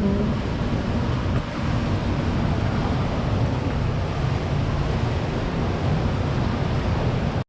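Steady low rushing hum of a large indoor aquarium hall, the kind of background made by ventilation and water-circulation equipment, with no distinct events; it cuts off abruptly near the end.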